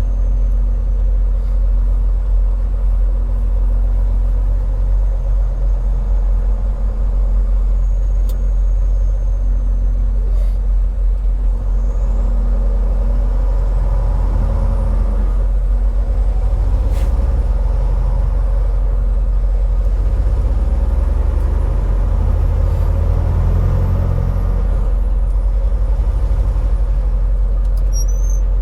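Steady low engine and road rumble inside a semi-truck's cab while cruising on the highway.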